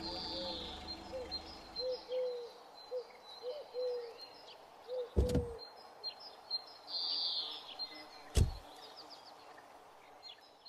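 Birds chirping and calling, with two heavy car-door thuds, one about five seconds in and another about three seconds later. Background music fades out in the first two seconds.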